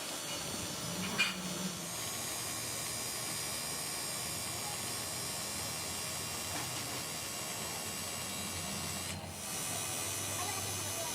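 Steady hissing noise, with a short break about nine seconds in.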